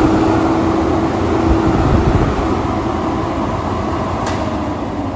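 Mapco 2 HP PVC centrifugal exhaust blower, driven by a three-phase motor, running at speed: a loud rush of moving air over a steady hum. It grows gradually a little quieter through the second half, with a faint tick about four seconds in.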